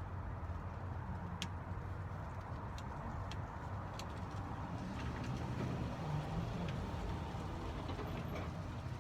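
Scattered light clicks of small metal lock parts being handled and cleaned, over a steady low background rumble.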